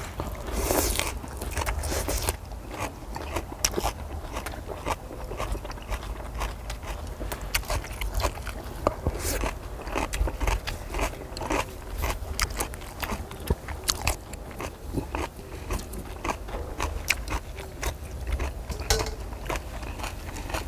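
Close-up eating sounds: chewing and crunching of grilled pork belly and minari, with many scattered short clicks and crackles over a steady low hum.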